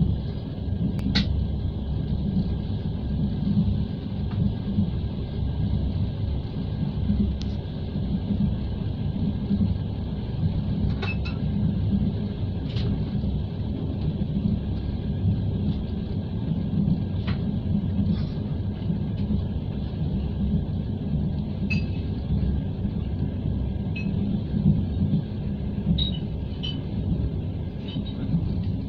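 A moving passenger train heard from inside the carriage, a steady low rumble of the wheels on the track. Occasional short clicks and brief squeaks sound through it.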